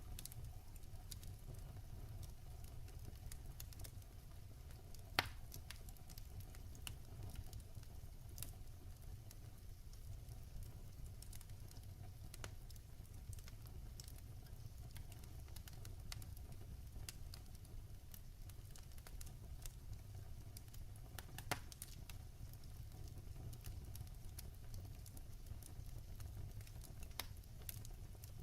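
Log fire crackling in a fireplace: a steady low rumble of the flames with scattered small snaps, and two sharper pops about five seconds in and again about twenty-one seconds in.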